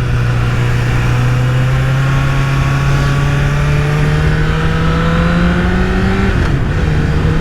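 Honda CBR1000RR Fireblade's 998 cc inline-four engine, with a Leovince exhaust, pulling in first gear. Its pitch rises slowly and steadily for about six seconds, then drops as the throttle comes off. Wind rushes over the microphone throughout.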